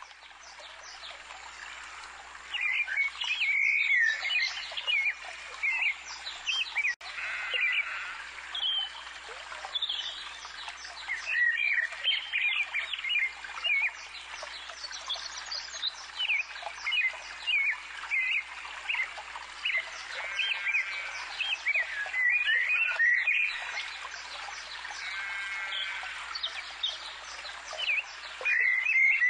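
Songbirds chirping and singing, many short calls and trills overlapping throughout.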